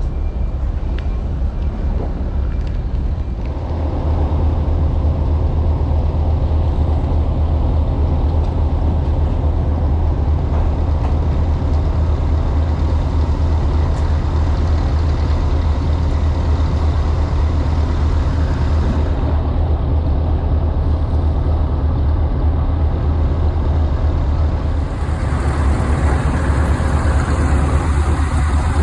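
A large engine running steadily with a deep drone, growing louder about four seconds in and again near the end.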